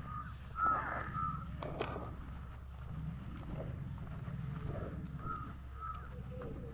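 A bird calling in short, arched calls: a few close together near the start and two more about five seconds in, over a steady low hum.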